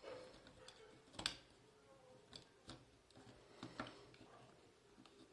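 Faint handling noise with a few sharp clicks and taps of hard plastic as the parts of a hot glue gun's housing are fitted together. The loudest click comes just over a second in, and a few lighter ones follow.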